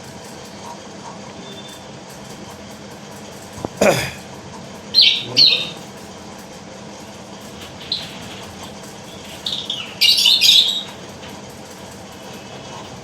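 Lovebirds chirping in short high bursts: a pair of calls about five seconds in, a single one near eight seconds and a dense flurry around ten seconds. A single sharp knock comes about four seconds in.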